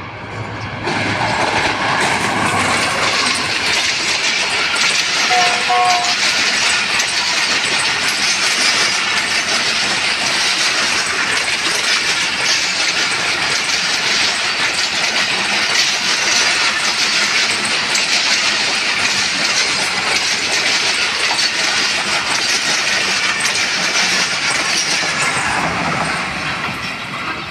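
Passenger train passing close by at speed: a steady, loud rush and clatter of coach wheels on the rails. It builds quickly about a second in and fades away near the end.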